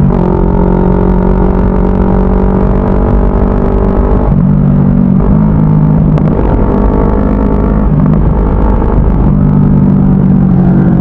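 CFMoto 400NK's parallel-twin engine running under way at fairly steady revs, its pitch stepping up and down several times as the throttle and revs change.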